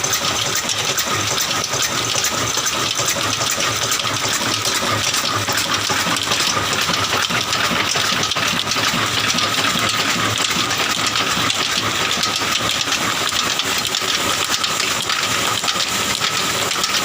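Old Ruston Hornsby stationary diesel engine running a chakki flour mill: a steady, continuous rushing mechanical noise with a constant whine.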